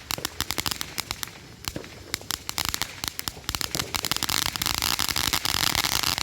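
A long-burning ground firework crackling: a dense, rapid stream of pops over a steady hiss. It thins out for a couple of seconds in the middle, then builds again.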